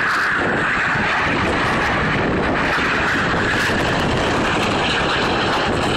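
BAE Hawk T1 jets flying past, a steady, loud rush of jet noise.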